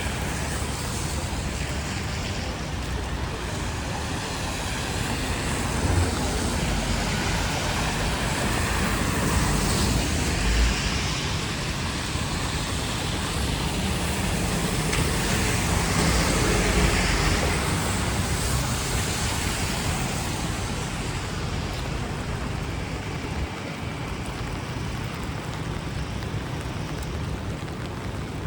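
Street traffic on a rain-wet city avenue: cars and trucks passing with a steady hiss of tyres on wet road, swelling louder as vehicles go by about a third of the way in and again just past the middle.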